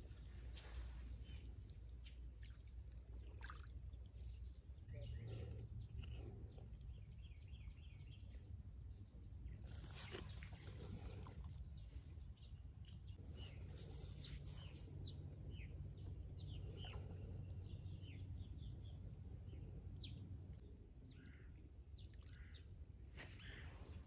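Faint lakeside ambience: scattered short bird chirps over a low steady rumble, with a few brief rustles and clicks as a plate is handled, the loudest about ten and fourteen seconds in.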